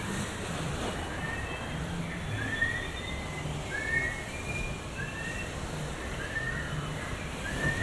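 Birds calling: short, rising whistled chirps about once a second, with fainter higher notes between them, over a low background murmur.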